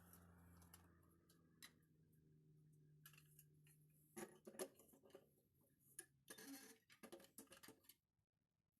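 Faint clicks and light knocks, several in quick clusters, over a low hum that dies away in the first few seconds; the sound cuts off abruptly near the end.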